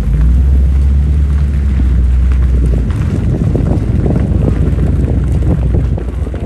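Car engine and exhaust rumbling close by: a steady deep note for about three seconds, then a rougher, uneven rumble that fades near the end.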